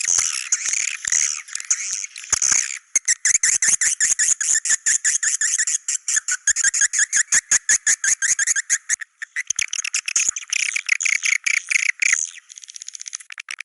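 Swiftlet calls in rapid chattering trains of short, high twittering chirps, the 'Goa China' walet call track. The chirping fades to a fainter, sparser twitter near the end.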